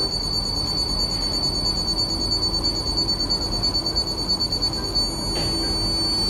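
Endodontic motor's apex locator giving a steady, high-pitched electronic tone as the file tracks down the canal; the tone stops about five seconds in and starts again near the end. A low rumbling noise runs underneath.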